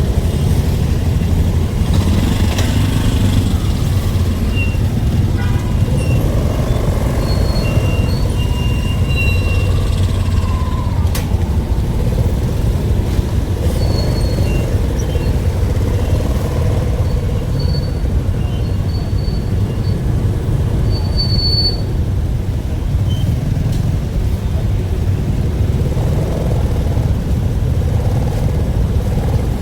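Steady low rumble of a vehicle on the move, with some faint wavering tones and a few short high chirps.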